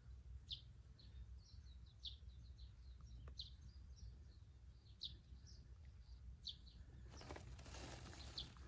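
Faint outdoor ambience with small birds chirping: short high chirps repeating about once or twice a second over a low steady rumble. A rush of hiss rises about seven seconds in.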